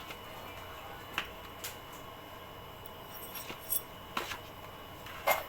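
A few sharp, light metallic clicks and clinks, spaced irregularly and loudest near the end, from hand tools and small engine parts being handled during a motorcycle engine top and side overhaul.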